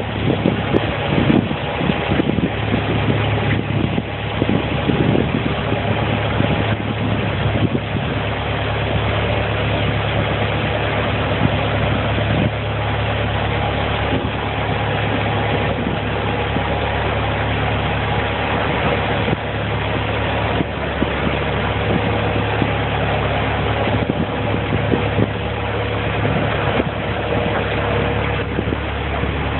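A boat's engine idling steadily, a constant low hum with a few fixed tones above it.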